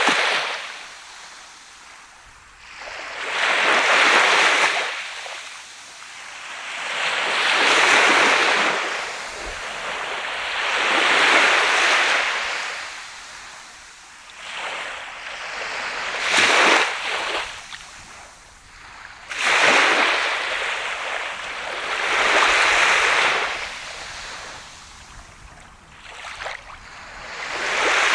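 Sea of Japan surf washing onto a sandy beach, each wave swelling into a hiss and fading, one about every three to four seconds.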